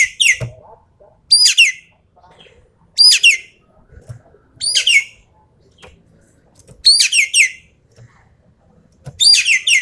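Ekek keling calling in short bursts of sharp, high notes that each slide downward, a burst about every one and a half to two seconds: the rapid-fire 'tembakan' call.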